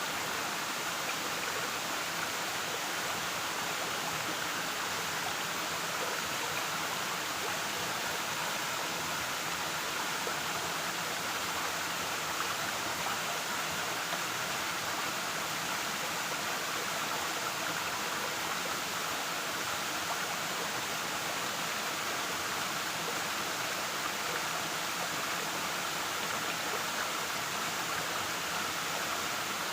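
Waterfall: a steady, unbroken rush of falling water that holds the same level throughout.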